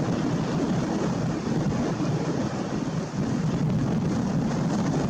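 Jet airliner engines giving a steady low rumble with no distinct tones.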